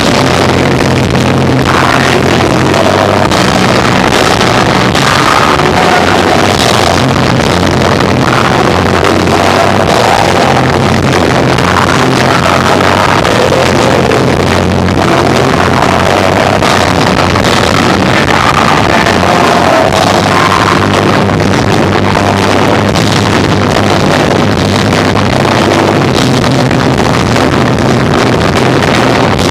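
Live rock band of electric guitar, bass and drums playing, heard through an overloaded, distorted recording that turns the music into a dense, steady wall of sound.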